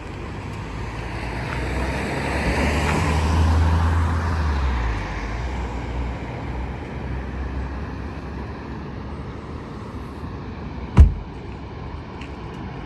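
A motor vehicle drives past, its engine hum and road noise swelling to a peak about three and a half seconds in and then fading away. A single sharp thump about eleven seconds in.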